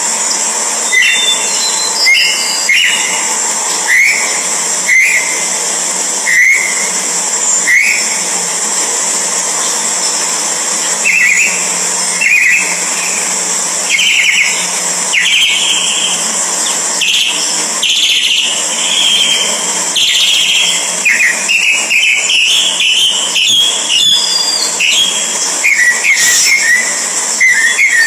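Birds chirping: short rising chirps about once a second, becoming denser and more varied in the second half, over a steady high-pitched hiss.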